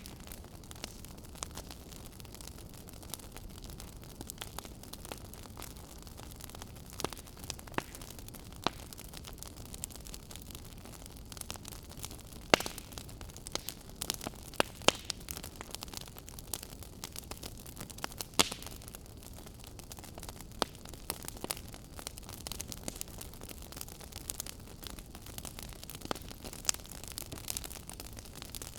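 Wood fire crackling: a steady low hiss with irregular sharp pops and snaps, a few louder pops in the middle.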